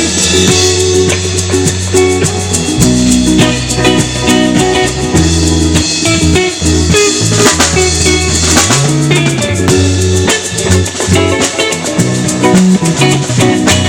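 Live band playing an instrumental passage without singing: drum kit and guitar over a low bass line whose notes change every second or so.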